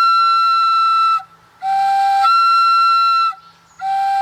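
Common loon call, a mouth-blown wildlife call, blown in repeated two-note phrases: a short low tone that jumps to a longer, steady high tone, with brief pauses between them. A held high note ends about a second in, a full low-to-high phrase follows, and another begins near the end.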